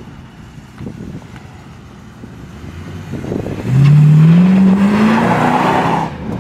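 Oldsmobile 442's V8 burbling at low speed, then about three and a half seconds in the throttle opens and the revs climb steadily for two seconds as the car accelerates hard, its rear tyres spinning, before the throttle is lifted near the end.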